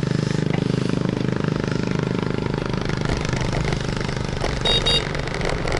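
Motorbike engine running steadily on the move. About three-quarters of the way through, a horn gives two short beeps.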